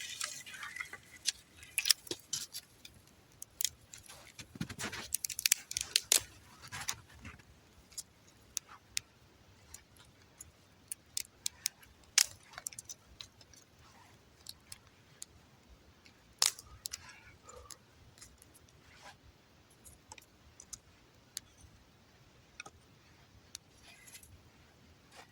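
Small campfire of twigs and branches crackling: irregular sharp pops and snaps, thick and loud for the first several seconds, then sparser.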